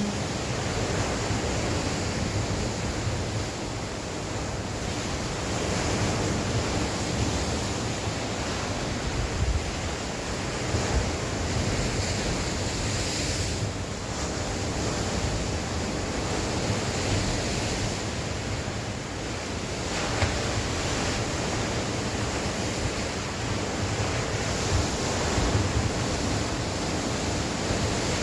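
Sea waves breaking and washing on the shore in a continuous surge that swells and eases every few seconds, with wind buffeting the microphone as a low rumble.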